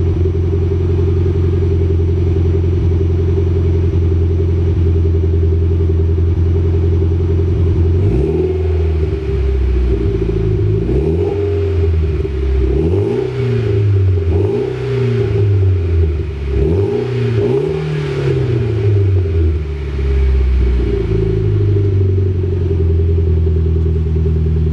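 Mitsubishi Lancer Evolution X's turbocharged 2.0-litre four-cylinder through an HKS Hi-Power dual cat-back exhaust, idling steadily after a cold start. About eight seconds in it is blipped up several times in a row, each rev rising and falling, towards 3-4k rpm, then it settles back to idle near the end.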